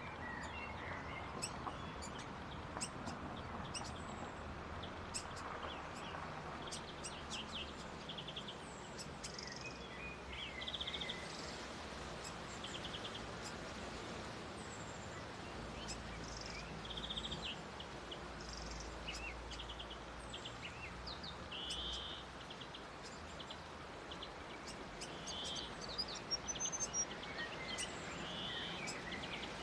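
Small birds calling with many short, high chips and twitters scattered throughout, including a quick rising run of notes near the end, over steady outdoor background hiss.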